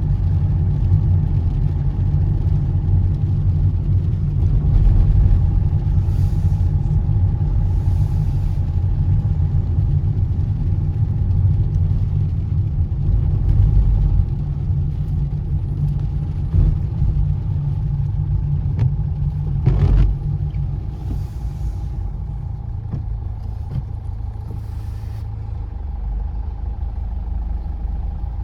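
Car driving on a wet road at night: steady low road and engine rumble with a faint constant whine. A few brief hissing surges come and go, and there is one sharp knock about two-thirds of the way in.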